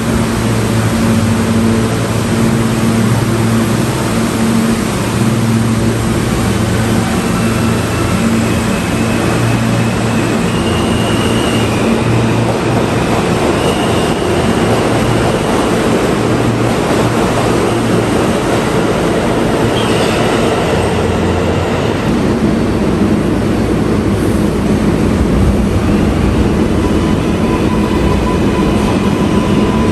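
New York City Subway train running in a station: a steady low motor hum in the first half, then rail and wheel noise with brief high-pitched tones.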